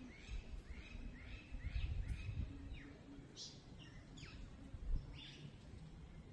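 Small birds calling outdoors: a quick run of short curved chirps, about two or three a second for the first three seconds, then a few scattered higher chirps, over a steady low background rumble.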